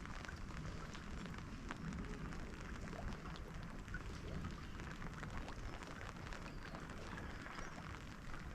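Steady rain, with many small drops and drips ticking irregularly on hard surfaces.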